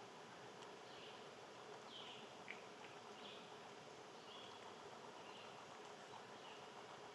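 Faint outdoor nature ambience: short, high chirps repeating about once a second over a low steady hiss, with a small click about two and a half seconds in.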